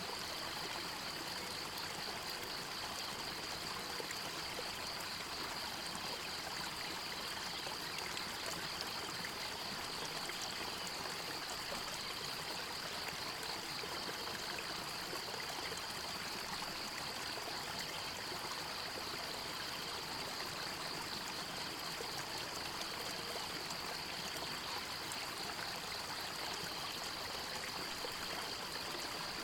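Forest stream running steadily, with a continuous high, fast-pulsing trill over it.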